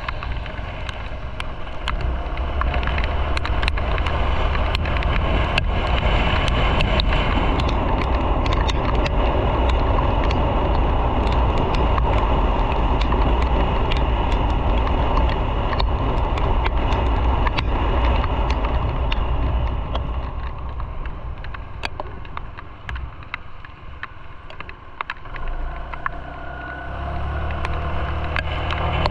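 Motorcycle riding on a road, the engine running under a steady rush of wind and road noise. After the middle it quietens for several seconds, then a low engine note picks up again near the end.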